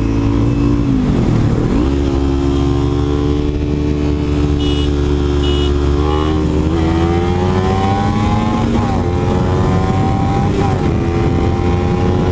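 Kawasaki Ninja 300's parallel-twin engine pulling hard from a quick start, its pitch climbing steadily through the revs with short dips at the gear changes, over a heavy low rush of wind and road noise.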